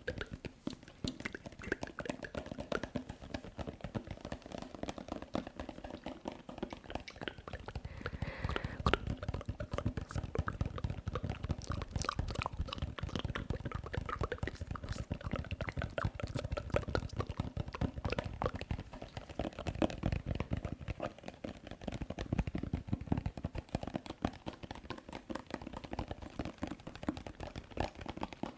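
Close-miked ASMR tapping and mouth sounds: a dense, fast run of small clicks and wet pops.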